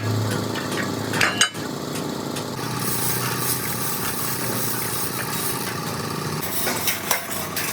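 Steady machinery noise from trailer-body fabrication work, with a few sharp knocks about a second in and again near the end, and a high hiss joining about three seconds in.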